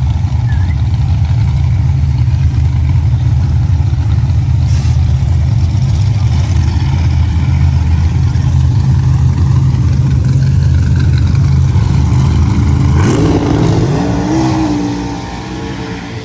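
A large engine running loudly with a steady low rumble. About thirteen seconds in, the rumble drops away, a brief rising tone follows, and the sound fades.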